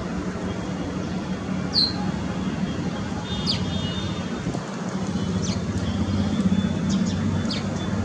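Thin, high, downslurred chirps of Indian white-eyes, a few spaced through, over a steady low rumble of road traffic that swells briefly about six seconds in.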